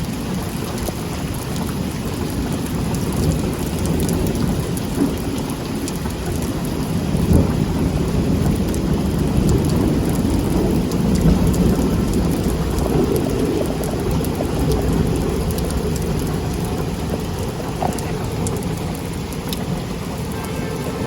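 Heavy rain pouring steadily, with a low rumble of thunder that swells in the middle and eases off again.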